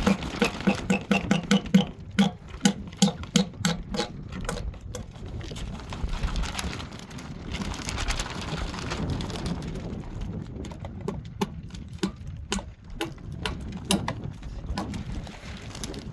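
Quick runs of tapping and knocking, several strikes a second and loudest in the first few seconds, then thinning out to scattered knocks.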